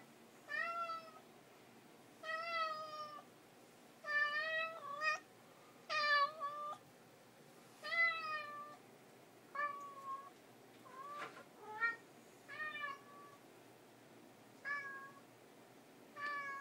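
Domestic cat meowing over and over: about a dozen short meows a second or two apart, some bending in pitch or breaking into two parts, which the owners hear as the cat saying "hello".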